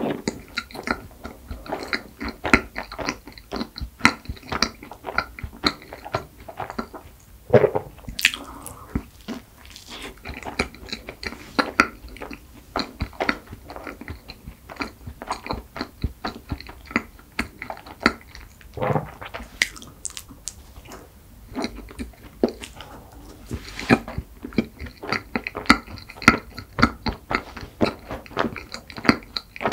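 Close-miked chewing and biting of flaky cream-filled pastry: a steady run of soft, wet mouth sounds with small crackles of crust.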